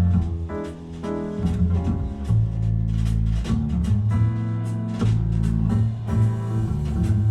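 Jazz recording played back over a high-end hi-fi system: a plucked double bass holds long, deep notes under guitar.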